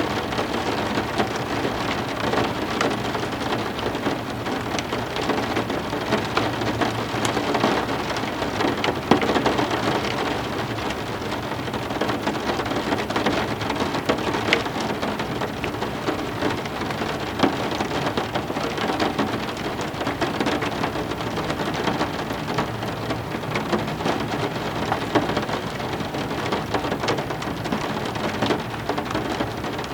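Heavy rain falling steadily on hard surfaces, a dense patter with scattered sharper drop hits.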